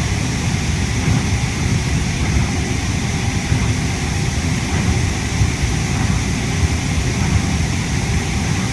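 Steady cabin noise inside a Yui Rail monorail car: loud air-conditioning noise over a low, uneven running rumble.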